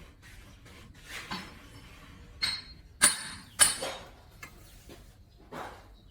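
Hard objects being handled, with a few sharp metallic clinks; the loudest two come about half a second apart near the middle, with quieter knocks and rubbing between.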